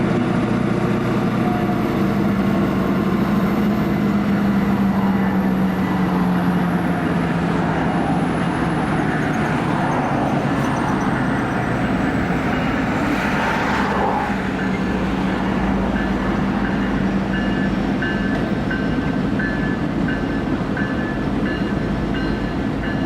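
Diesel switching locomotives, a Norfolk Southern EMD GP59E working with a slug unit and a GP38-2, running steadily in yard service with a continuous low engine hum. A faint high whine falls slowly in pitch over the first half.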